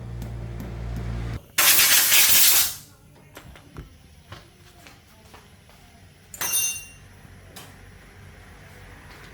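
A steady low hum that cuts off about a second in, followed by a loud hiss lasting about a second, a few light clicks, and a second, shorter hiss near the seven-second mark.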